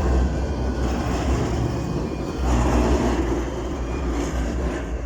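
Tram pulling into the stop, its motors and wheels running with a heavy low rumble that swells near the start and again about two and a half seconds in.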